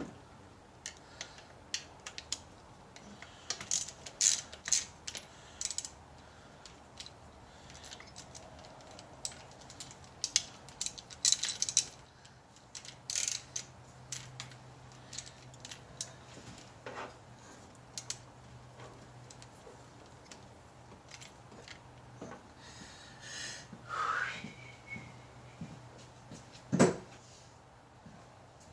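Hand tools on the engine: a ratchet wrench clicking and metal clinking in short, irregular bursts, with a brief rising squeak near the end.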